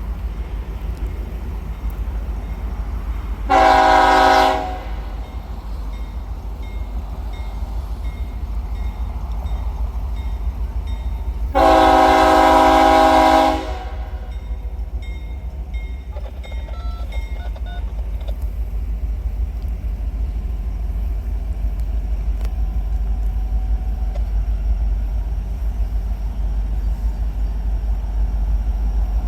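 Locomotive air horn sounding twice, each blast a chord of several steady notes: a short blast of about a second, then a longer one of about two seconds some eight seconds later, over a steady low rumble.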